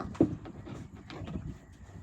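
A single short grunt from a young wild boar piglet about a quarter second in, followed by faint low scuffling.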